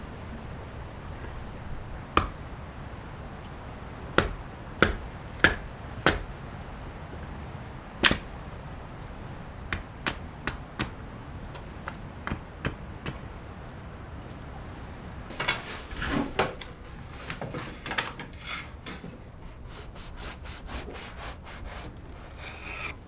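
Irregular sharp knocks and clicks over a steady low rumble: a few loud single knocks spaced a second or two apart in the first eight seconds, then lighter, quicker clicks and a denser cluster of rattling knocks in the second half.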